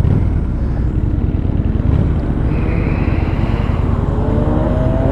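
Motorcycle engine running at road speed with wind rushing over the helmet-mounted camera's microphone. About four seconds in, an engine note begins to rise.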